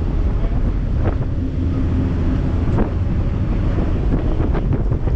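Wind buffeting the microphone on the open deck of a moving cruise boat, a loud, steady rush with a low rumble from the boat underneath.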